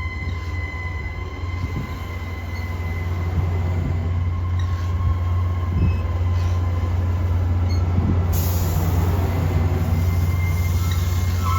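Amtrak passenger train passing close by, a steady low rumble with rail and wheel noise that grows louder and hissier as the cars go by. A high, steady wheel squeal fades out at the start and comes back near the end.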